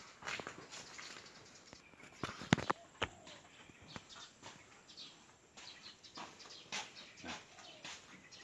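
Short bird chirps from swiftlets among scattered sharp clicks and knocks, the loudest knocks about two and a half to three seconds in.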